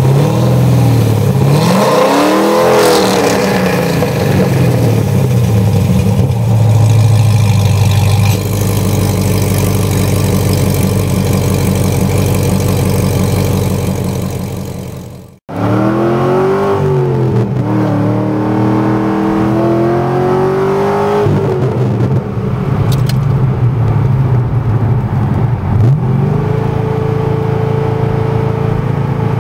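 Corvette C6 Z06's 7.0-litre LS7 V8 through Melrose long-tube headers and Billy Boat Fusion mufflers, revving and then running at a steady drone. After a brief cut about halfway, the engine note rises and falls several times, climbing and holding higher near the end.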